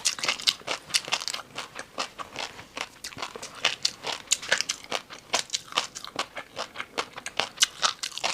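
A person biting and chewing crunchy food: a rapid, irregular run of crisp crunches.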